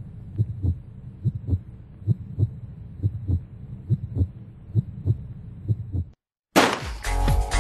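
Heartbeat sound effect: paired low thumps, lub-dub, about once a second. It stops about six seconds in, and after a brief silence upbeat disco-style dance music begins.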